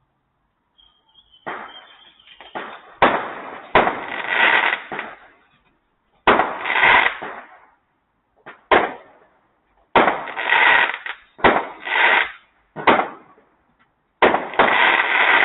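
Fireworks going off in a string of about ten loud bangs, one every one to two seconds, each fading out over about a second.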